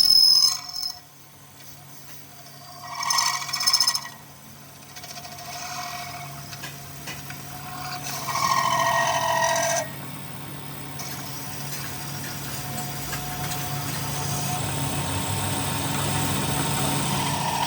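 Workshop power tool running with a steady low hum, with louder bursts of ringing metal about three seconds in and again from about eight to ten seconds.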